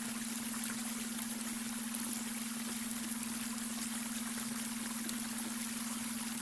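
Babbling brook: water running and trickling steadily over stones, with a steady low tone underneath, the beta brainwave tone blended into the water sound.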